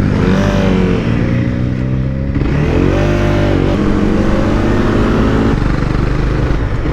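Honda CBR300R single-cylinder motorcycle engine running under way. Its revs climb about a third of the way in, then ease and hold before shifting again.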